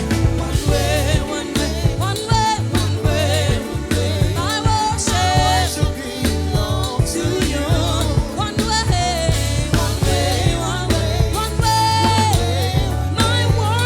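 Gospel worship music: a singer carrying a melody over a band with a steady, heavy bass line.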